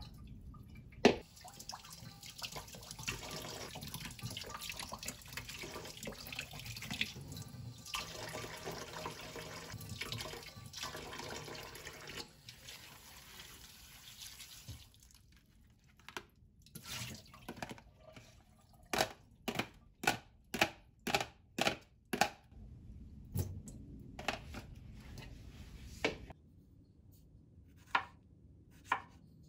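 Kitchen tap running into a sink for about fourteen seconds, starting with a sharp knock. After a short lull comes a run of sharp separate knocks, about two a second at their densest, then a few more spaced out.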